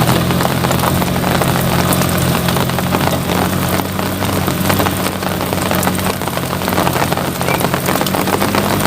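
Rain falling steadily, with many small drop clicks, over a steady low hum like a running engine.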